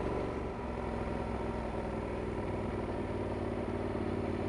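Yamaha Super Tenere XT1200Z's 1,200 cc parallel-twin engine running steadily at an even, unchanging pitch.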